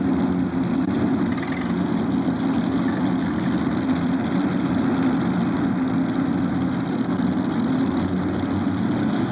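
Modified pulling tractor's supercharged, alcohol-burning big-block Chevrolet V8 engines idling steadily while it waits to be hooked to the sled.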